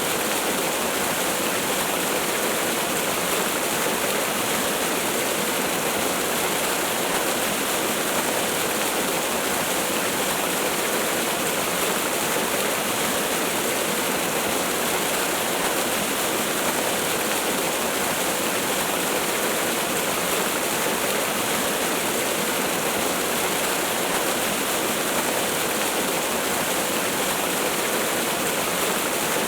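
Waterfall: a steady, unbroken rush of falling water with little deep rumble.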